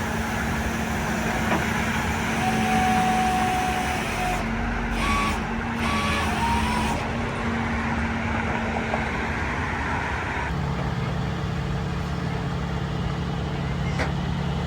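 A truck engine running steadily, with a lower, stronger engine note coming in about ten seconds in.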